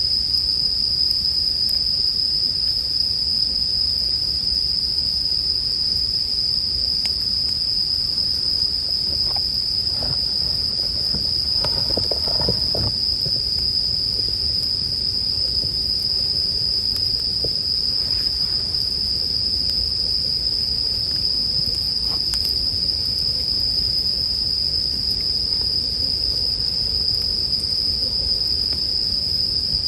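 A chorus of Japanese bell crickets (suzumushi) chirping in a continuous high trill. Underneath, a campfire crackles with a low rumble, scattered faint pops and a burst of crackling about twelve seconds in.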